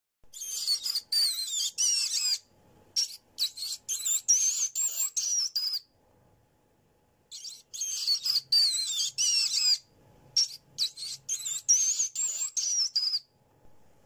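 Mouse squeaking: quick runs of high-pitched chirping squeaks that slide up and down in pitch, in two bouts with a short break about halfway.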